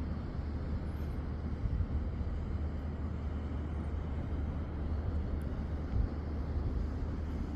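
Steady outdoor ambience: a low rumble with an even hiss above it, no distinct events.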